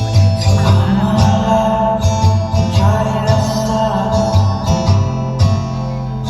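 Loud music with a heavy, pulsing bass beat and singing, played through a Venkatesh Sound Vi 7 series DJ sound system during a sound check.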